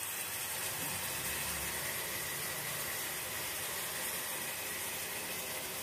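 Steady sizzle of an onion-tomato masala frying in ghee and oil in a pan.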